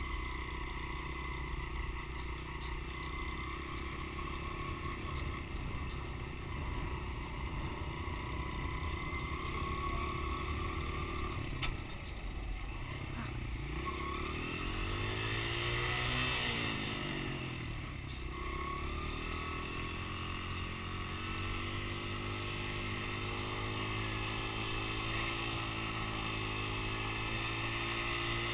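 Dirt bike engine running steadily. A little before the middle there is a sharp click, and soon after the engine note climbs and then drops back as the bike speeds up and slows or rides past.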